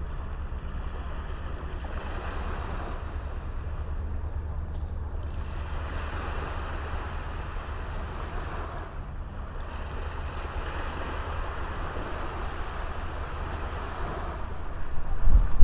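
Sea waves washing onto a small sandy beach in slow swells, with a low rumble of wind on the microphone that grows sharply louder near the end.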